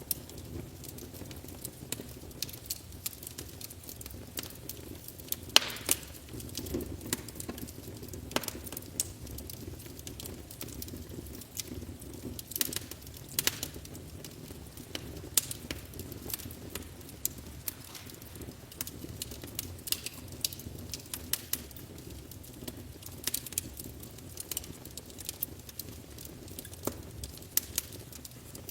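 Wood fire burning in a fireplace, crackling with irregular sharp pops and snaps over a steady low rush of flame.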